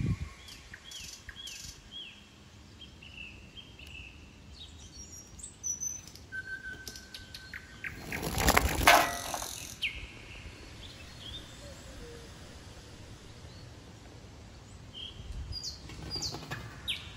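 Garden birds chirping, short falling chirps repeated in quick runs, thickest in the first few seconds and again near the end. About halfway through, a rattling clatter lasting about two seconds is the loudest sound.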